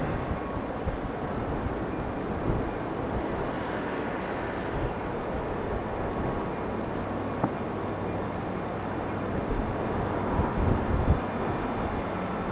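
Steady, fairly quiet rumble of a freight train moving off after passing, with a few brief low thumps.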